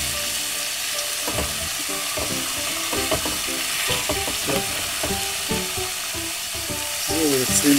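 Cubes of beef and pork sizzling steadily as they sear in hot fat in a pot, with short crackles and spits as more pieces are laid in by hand.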